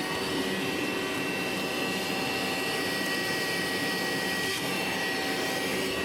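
An electric motor, vacuum-like, spins up with a rising whine and then runs steadily, a high whine over a rushing hiss.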